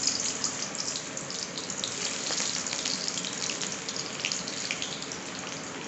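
Onions sizzling in hot oil in a steel wok: a steady, dense sizzle with many small crackling pops, easing off a little towards the end.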